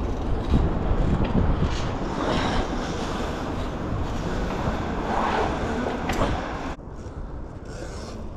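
Steady wind rush and road noise on the microphone while riding among traffic, a loud rumbling hiss that drops off suddenly a little before the end.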